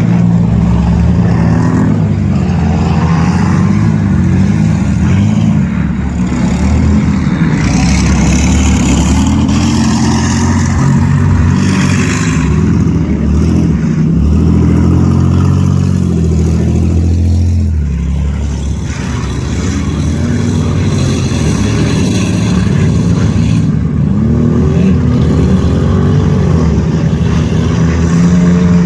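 A junk race car's engine running hard, loud and continuous, its pitch rising and falling as it accelerates and lifts off. It eases briefly about eighteen seconds in.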